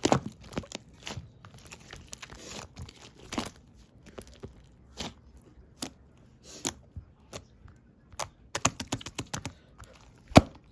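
Bubble-filled clear slime being squished and poked by hand, giving irregular sticky pops and crackles with a few short squelching hisses.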